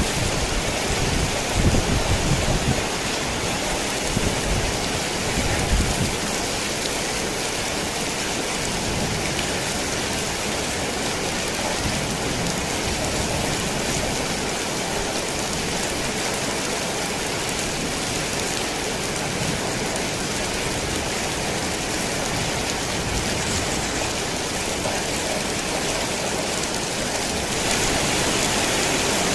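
Heavy rain falling steadily on a tin roof, with low rumbles of thunder during the first few seconds. The rain gets slightly louder near the end.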